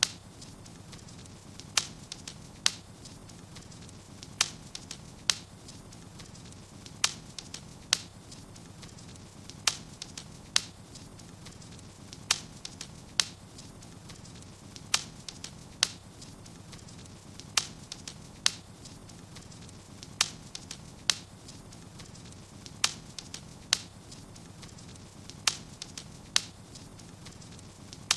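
Wood fire crackling in a fireplace: sharp pops in pairs about a second apart, the pattern repeating every two and a half seconds or so, over a steady low hum.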